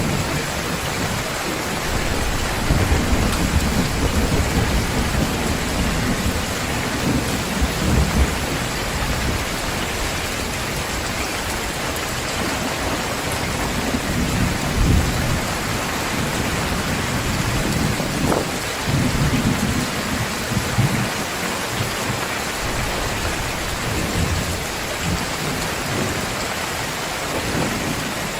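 Heavy, steady downpour with low rolling thunder that swells and fades several times.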